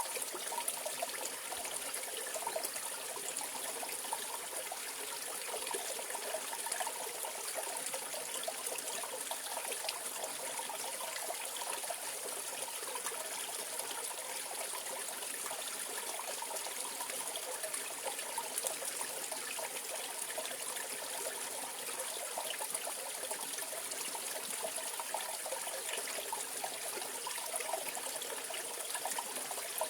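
Mountain valley stream flowing, a steady rush of water with small trickling and splashing flickers.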